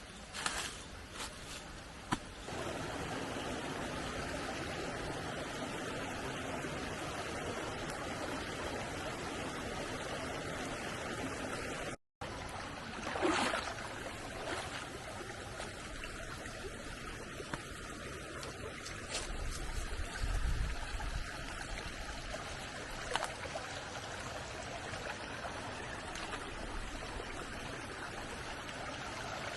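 Stream water flowing steadily, with a few clicks in the first two seconds. The sound cuts out for a moment about twelve seconds in, then the flowing water carries on.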